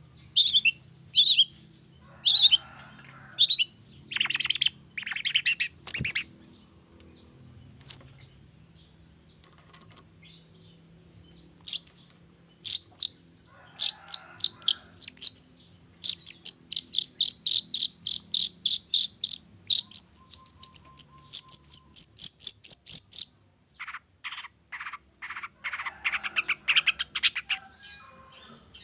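Long-tailed shrike (cendet) singing a varied song of sharp chirps and buzzy calls, then long fast runs of rapidly repeated notes, with a quiet pause about a third of the way in.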